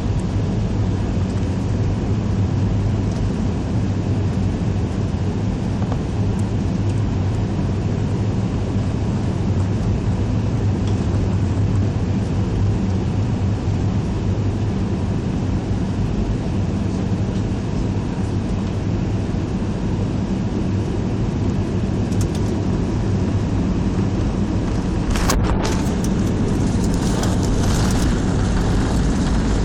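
Airliner cabin noise after landing: a steady mix of engine and air noise with a low drone. A few short, sharper noises come near the end.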